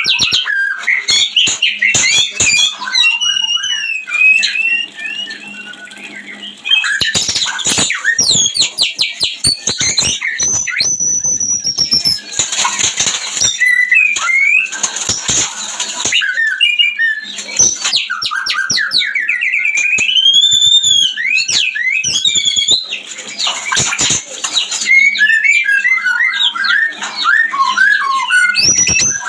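White-rumped shama song from breeding birds: a loud, varied stream of whistles, rapid trills, rising and falling slurred notes and harsh clicking chatter. It drops off briefly about five seconds in and later has a long whistle that rises and then falls.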